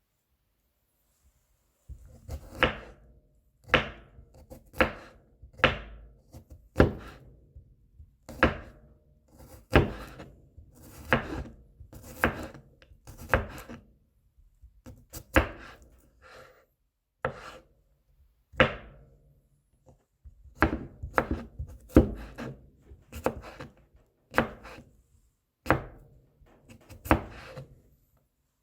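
Kitchen knife mincing garlic on a cutting board: sharp chops about once a second, with quieter scraping and tapping between them, beginning about two seconds in.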